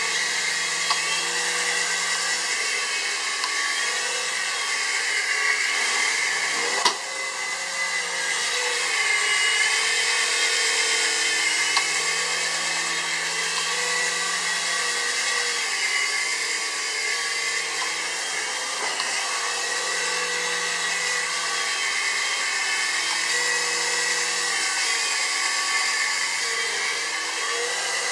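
QS9005 three-channel toy RC helicopter's small electric motors and rotors whining steadily, the pitch wavering a little as the throttle changes, with one sharp knock about seven seconds in.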